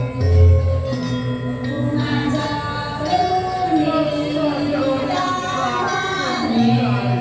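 Balinese janger music: voices singing together over a gamelan accompaniment with a steady pulsing low beat, and a deep heavy stroke about half a second in.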